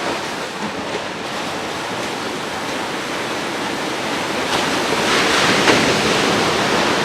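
Ocean surf: waves washing onto the shore in a steady rush, with a wave swelling louder about five seconds in.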